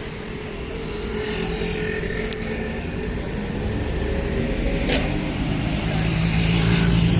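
Car engine running with a steady low note, growing louder toward the end as the car draws closer.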